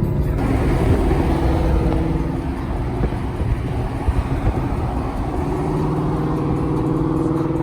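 Car engine running with road and wind noise, heard from inside the moving car's cabin; a louder rush of noise comes in about half a second in.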